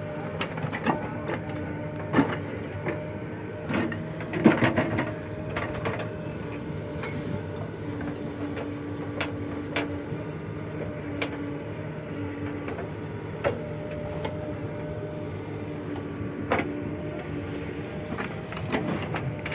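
Diesel engine of a JCB 3DX backhoe loader running steadily under work, with scattered metallic clanks and knocks from the machine, the loudest cluster about four and a half seconds in.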